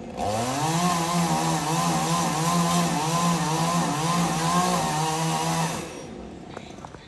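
Two-stroke chainsaw revved up to full throttle a moment in, held at high revs with the pitch wavering slightly for about five and a half seconds, then let back down toward idle near the end.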